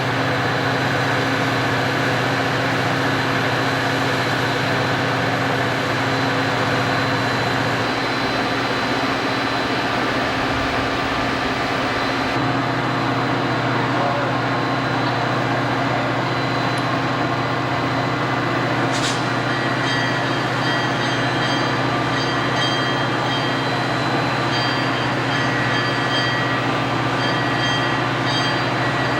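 A train running on the rails, a steady, continuous noise, with short high tones coming and going in the second half.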